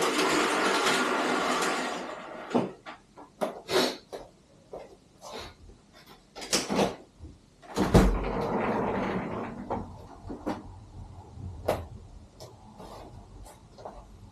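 Household handling sounds: a steady rush of noise that stops about two seconds in, then a scattered run of small clicks and knocks, with one heavier thump about eight seconds in.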